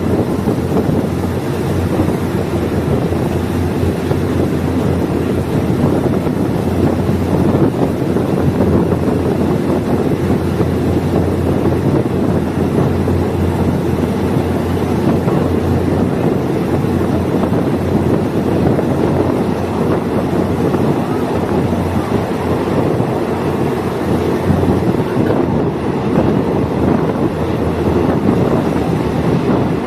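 Diesel multiple unit train running steadily, a continuous low engine drone and rolling rumble, with wind buffeting the microphone.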